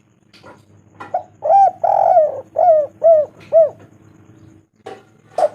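Spotted dove cooing: a phrase of about six arching coos, the second drawn out longer than the rest, starting about a second in. Another phrase begins near the end.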